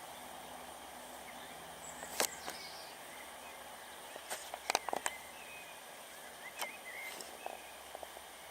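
Outdoor ambience: a steady hiss with a few brief chirps and scattered short, sharp clicks, most of them bunched around the middle.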